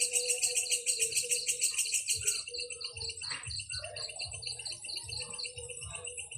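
Nature soundscape: a rapid, even insect-like trill of about eight or nine pulses a second that cuts off abruptly after about two seconds, followed by scattered bird chirps over a soft steady tone.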